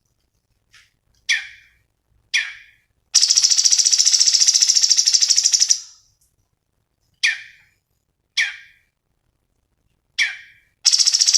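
Cucak cungkok singing: single sharp calls that drop steeply in pitch, given a second or so apart, broken by a long, very fast, high trill lasting nearly three seconds. Another fast trill starts just before the end.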